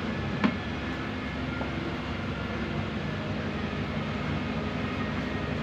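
A steady mechanical drone with one short click about half a second in.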